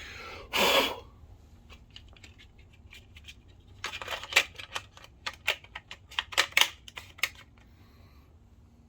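A short noisy burst about half a second in, then a run of sharp clicks and taps from about four to seven and a half seconds in: small parts and tools being handled by hand at a workbench.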